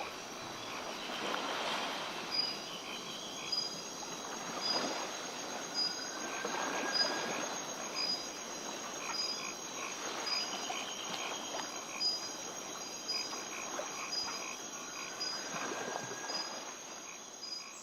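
Night chorus of insects and frogs: a steady high trill with evenly spaced chirps and recurring frog calls, fading out near the end.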